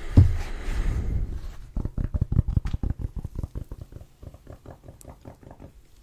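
Rapid close-up tapping on the microphone, many quick light taps in a run, loudest in the middle and fading softer toward the end. A single low thump comes just at the start.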